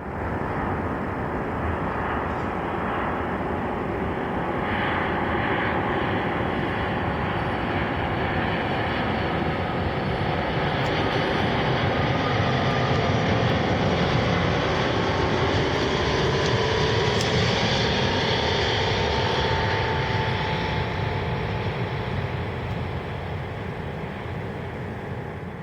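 Twin-engine widebody jet airliner on final approach to land, its engines' rushing noise swelling as it passes close and then fading away. A whine slides slowly downward in pitch as it goes by.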